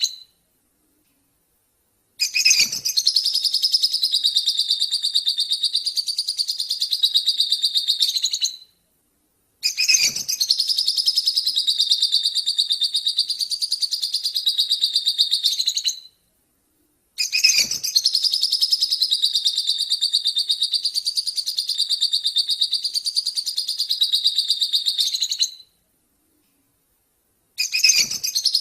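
A small songbird singing a long, very rapid chattering song: a fast run of high notes delivered many times a second in phrases of six to eight seconds, broken by short, abrupt silences. This is a song-tutor (masteran) recording of the kind played to train cage birds.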